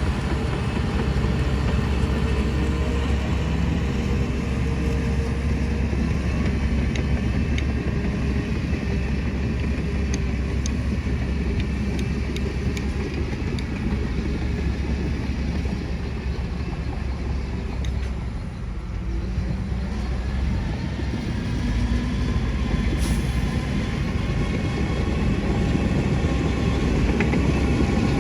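Heavy diesel construction machinery running steadily under load, a deep engine hum throughout that eases briefly about two-thirds of the way through.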